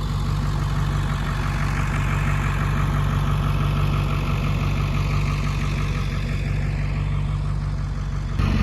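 A vehicle engine running steadily at low revs. The sound changes abruptly just before the end.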